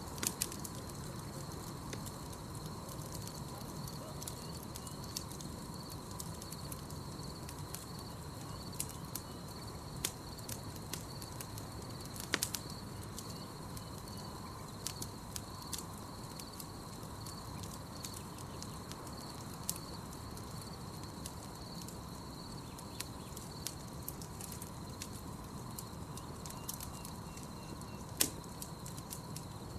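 Campfire crackling: irregular sharp pops and snaps over the fire's steady low hiss, one louder snap about twelve seconds in. A faint steady high tone runs beneath it.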